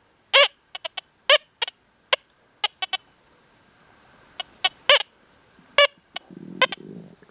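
Deus 2 metal detector in pitch-tone mode giving a string of short, broken, wavering chirps as its coil sweeps over a US nickel lying beneath an elevated fridge magnet, at reactivity 2: a choppy, unsteady signal rather than a clean tone. A steady high cricket chirring runs underneath.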